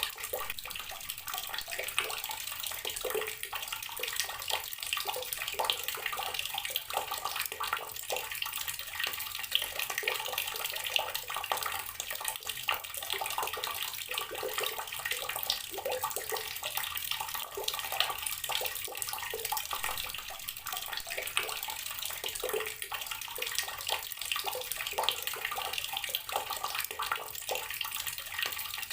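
Water running steadily from a tap and splashing, with many small spattering splashes.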